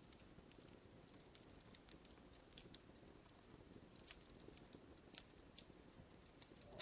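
Wood fire crackling faintly in a fireplace: scattered small pops and snaps over a low steady hiss, with a sharper pop about four seconds in and another just after five.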